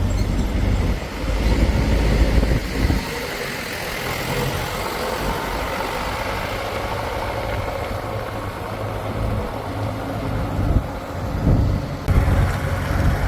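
Diesel engine of a backhoe loader or tractor running steadily, heavier and louder for a couple of seconds near the start, with a few surges near the end.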